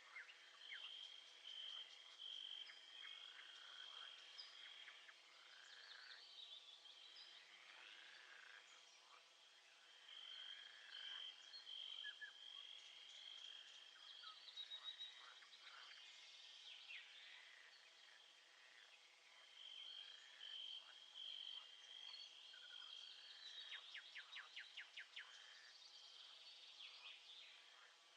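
Nature ambience of frogs calling and insects trilling, faint: a high steady trill comes and goes in long stretches over a chorus of short calls.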